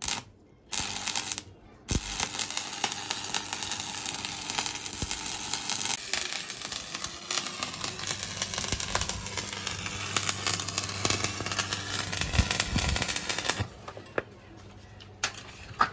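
Stick-welding arc of a 6013 mild-steel electrode running on the uphill capping pass of a 3G vertical plate weld. It strikes briefly twice in the first two seconds, then burns steadily for about twelve seconds and stops, with a faint low hum beneath it.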